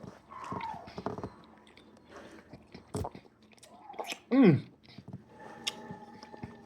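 Chewing and mouth smacks of someone eating chicken gumbo, with a loud short moan falling in pitch about four seconds in.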